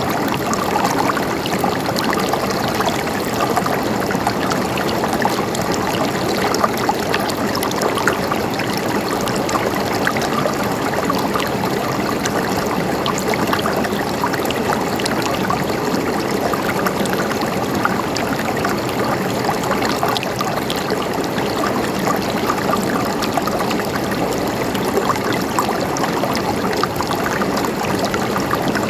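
Mountain stream flowing steadily, a continuous gurgling babble of water with many small splashes and drips.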